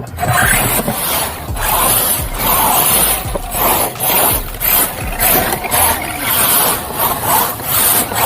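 Redcat Wendigo RC mega mud truck spinning a donut at full power, its tyres churning and spraying the ground in rushing surges about twice a second.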